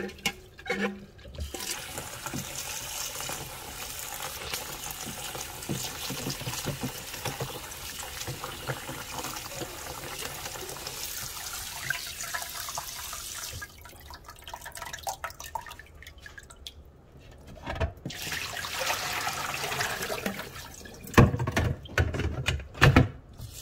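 Kitchen tap running into a sink with splashing, stopping for a few seconds about halfway through, then running again; several sharp knocks near the end, as of things being handled in the sink.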